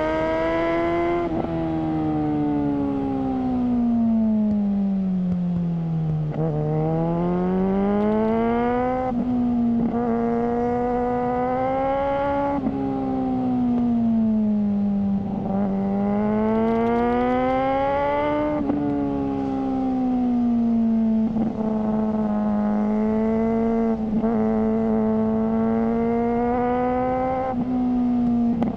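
Suzuki GSR600's inline-four engine through a GPR Ghost aftermarket exhaust, ridden. The revs fall slowly for the first few seconds, then climb and drop sharply at a series of gear changes.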